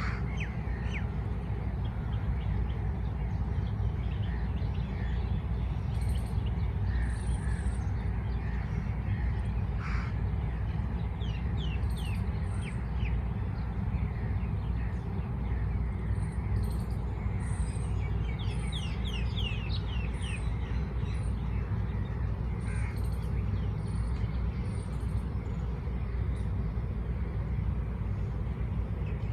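Birds calling: runs of quick, high, falling chirps come in clusters, mixed with a few lower, harsher calls. A steady low rumble runs underneath.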